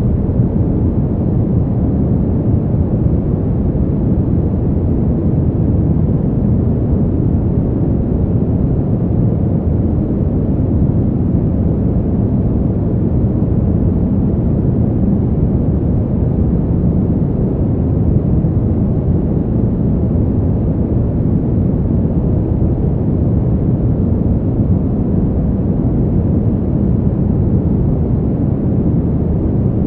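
Steady, deep wind noise for sleep, even and unbroken with no gusts or separate sounds, most of its weight in the low range and little hiss on top.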